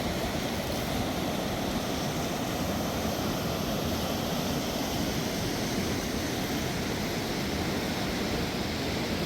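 Fast mountain river rushing: a steady, even noise of running water with no breaks.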